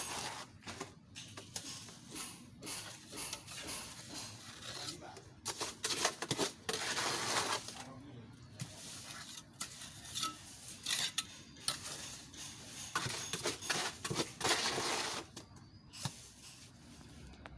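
A metal hand tool scraping and clinking irregularly against a hard surface, in many short strokes.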